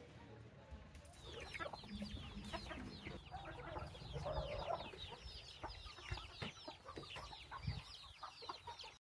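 Faint bird calls: a rapid, overlapping run of short downward chirps that starts about a second and a half in and continues almost to the end.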